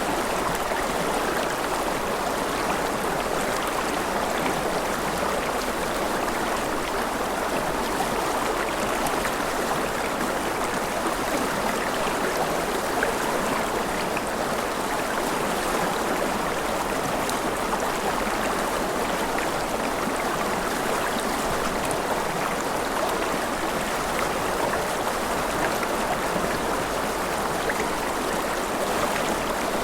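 Mountain river flowing over rapids, a steady, unbroken rush of water.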